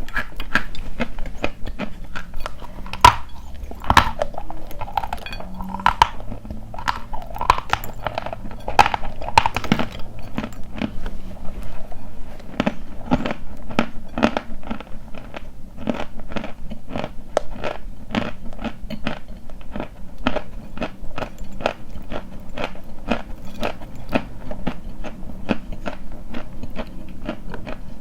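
Close-up crunching of dry white chalk being bitten and chewed: irregular bites at first, then steady chewing crunches about two or three a second.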